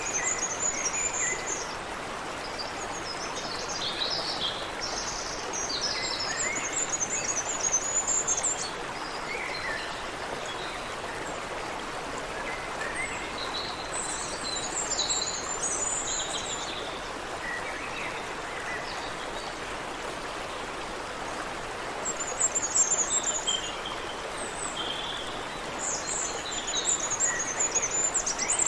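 Creek water running steadily, with small birds calling in several bouts of high, rapid chirps separated by pauses.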